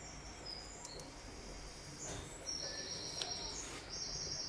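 Birds chirping faintly: high-pitched calls that grow a little louder in the second half, with a few faint clicks.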